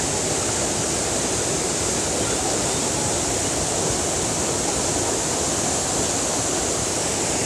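Waterfall rushing, a steady roar of falling water with no change in level.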